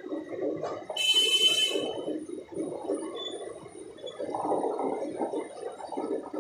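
Passenger train coaches rumbling past along the track. A brief high-pitched squeal comes about a second in and lasts under a second.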